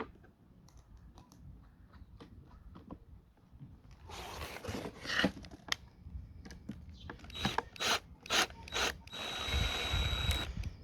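Power drill driving large screws into thin scrap wood in several short bursts, with knocks and clicks of handling between, and one longer steady run with a thin high whine near the end.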